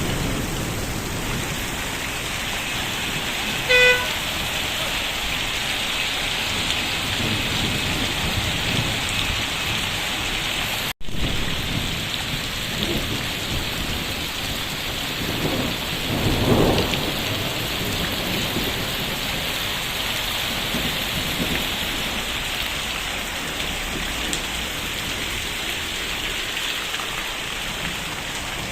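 Heavy rain pouring down with rainwater running along a flooded road, a steady dense hiss. About four seconds in comes one short, loud beep like a vehicle horn, and midway there is a brief dip in the sound.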